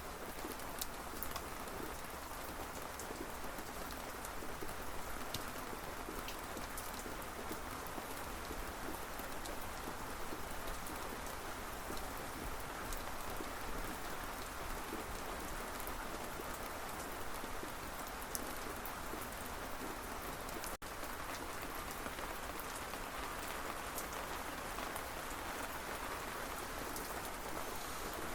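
Steady rain falling on a surface, with individual drops ticking through an even hiss. There is a momentary dropout about three-quarters of the way through.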